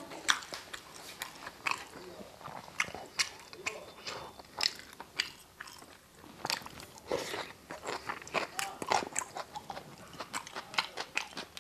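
A person chewing and biting a mouthful of rice and curry close to the microphone: a steady run of short mouth smacks and clicks, with occasional crunches.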